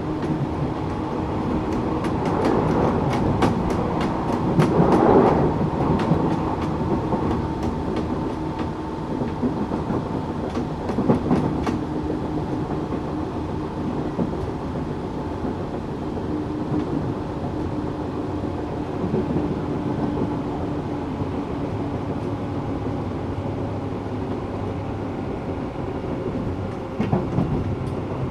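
Tokyu 8500 series electric train running, with steady motor and gear hum under rolling wheel noise. A quick run of wheel clicks over rail joints comes a few seconds in.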